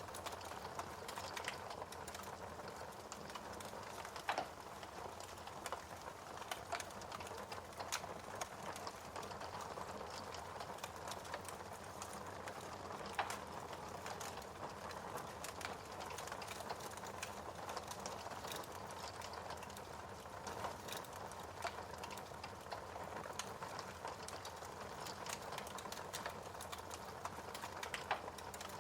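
Fire burning in a fireplace: a steady hiss of flames with frequent sharp crackles and pops. A few louder snaps come about four seconds in, near the middle and near the end.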